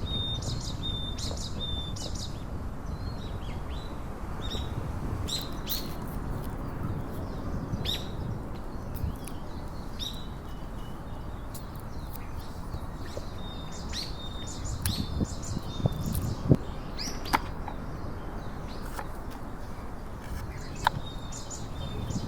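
Small birds chirping: short, high calls repeating every second or so, over a steady low rumble.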